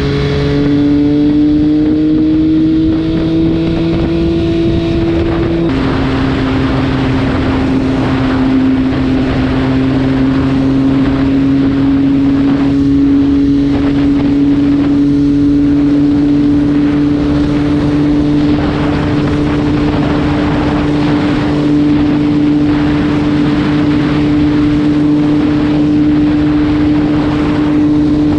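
MV Agusta F3 675's three-cylinder engine pulling on the move, with wind rushing over the microphone. The engine note climbs, drops suddenly about six seconds in as on an upshift, then holds fairly steady.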